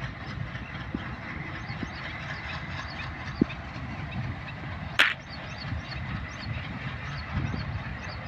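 Low rumble of a distant locomotive-hauled passenger train approaching, with small high chirps repeating over it. A sharp click comes about five seconds in.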